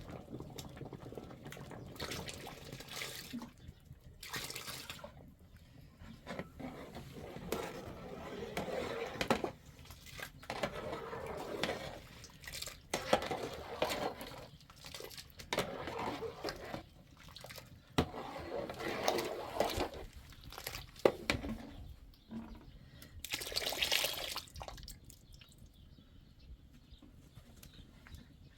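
Water splashing and pouring in irregular bursts, with a few sharp knocks in between.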